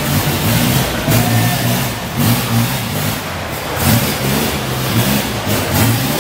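Car engines running and being revved, a loud low rumble that swells and drops irregularly.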